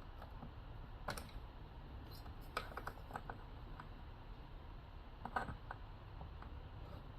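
Light scattered clicks and taps of small chainsaw parts being handled while lines are pulled off the carburetor, with sharper clicks about a second in, around two and a half seconds in, and near five and a half seconds in, over a low hum.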